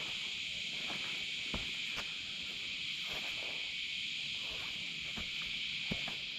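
Steady, high-pitched chorus of insects in the forest, with a few soft footsteps on the forest floor.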